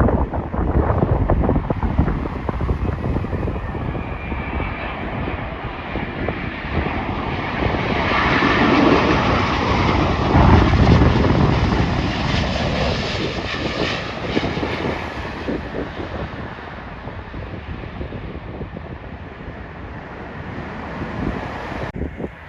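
Jet airliner coming in to land and flying past: its engine noise builds to a peak about halfway through, then fades with a falling pitch. Wind buffets the microphone throughout.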